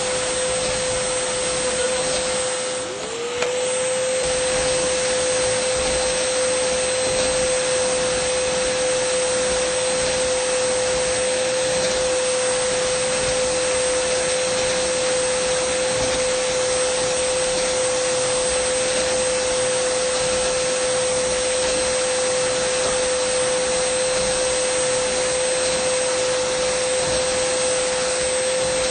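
Dyson vacuum cleaner running at a steady high whine over a rush of airflow. About three seconds in, its level dips and the whine sags briefly, then glides back up to pitch with a small click.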